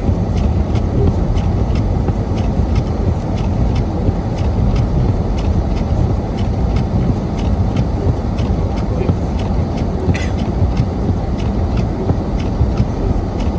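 Car driving on a snowy road: a steady low rumble of engine and tyres, with a rapid, even ticking of about three to four clicks a second.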